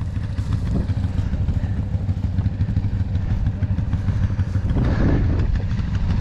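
ATV engine idling close by, a steady low rumble. About five seconds in, a brief wavering sound rises and falls over it.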